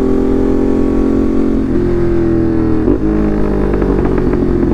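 Ducati Monster's L-twin engine running through an SC Project aftermarket exhaust while the bike is ridden. It holds a steady pitch, with brief changes in pitch about two and three seconds in.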